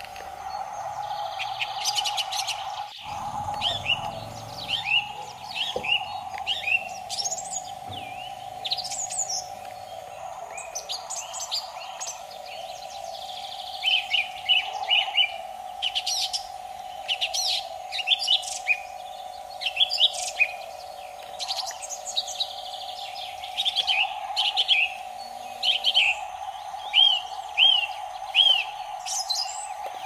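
Birds chirping: short, high, sweeping calls in quick runs throughout, over a steady hum.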